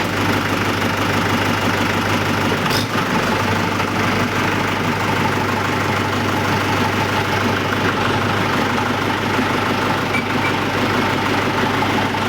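Tractor engine running steadily at low revs, with one short click about three seconds in.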